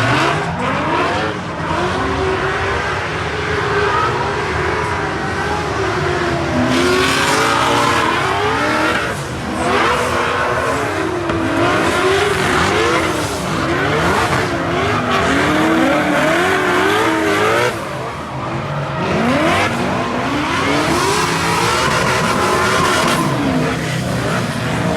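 Cars drifting: engines revving up and down over and over, with repeated bursts of tire squeal.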